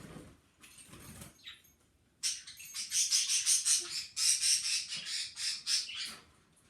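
Pet bird fluttering and flapping its wings in a quick, rhythmic run of bursts, starting about two seconds in and lasting some four seconds.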